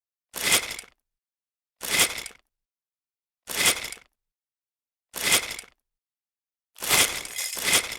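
Toy pull-back race car's spring motor gears whirring in short grainy bursts, five times about a second and a half apart, the last one doubled.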